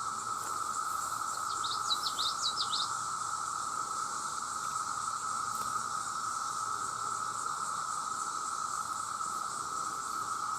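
Chorus of many cicadas droning steadily at one even pitch. About two seconds in, a short run of quick, high, falling chirps sounds over it.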